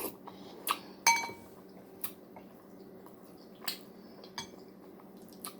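Spoon clinking against a soup bowl while eating: about six separate clinks, the one about a second in ringing briefly.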